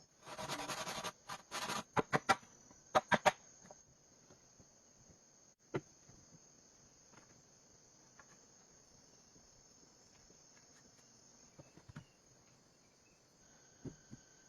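Steady high-pitched chirring of insects such as crickets. Over it, a quick series of loud clicks and rattles in the first few seconds, then a few single knocks.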